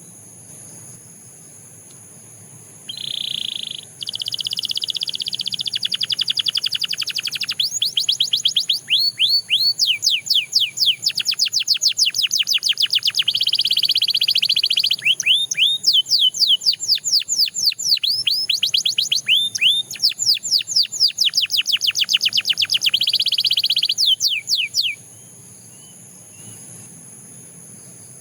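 Canary singing a long, loud song of rapid rolling trills and quick repeated downward-sweeping whistles. The song starts about three to four seconds in and stops a few seconds before the end.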